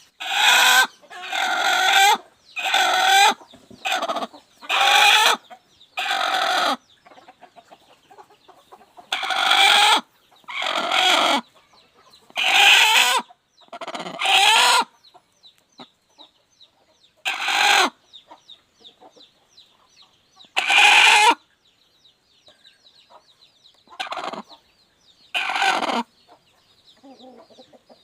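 Broody hen calling in loud repeated clucks, each half a second to a second long. They come in a quick run for the first seven seconds, then more spaced out. Faint high chirping comes between the calls in the middle stretch.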